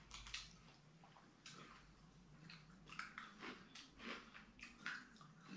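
Faint chewing, with scattered soft clicks of cutlery on plates.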